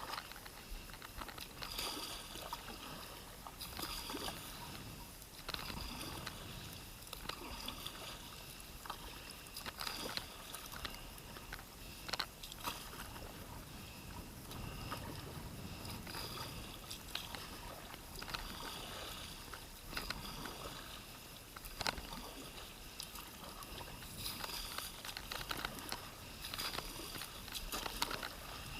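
Kayak paddle strokes dipping and splashing in the water, with dripping and small knocks, about one stroke every two seconds.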